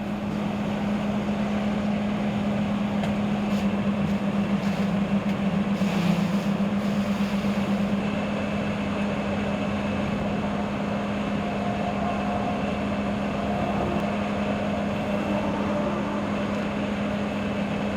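A large engine running steadily at one constant pitch, with a hiss of noise under it.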